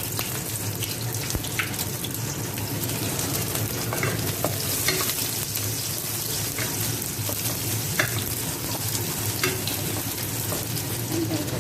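Sliced shallots frying in hot cooking oil in a wok: a steady sizzle with scattered sharp pops and crackles, and now and then a clink of the spatula stirring them.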